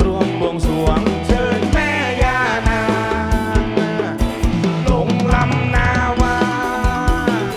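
A live rock band playing: drum kit beating steadily under bass, with a gliding lead melody line on top.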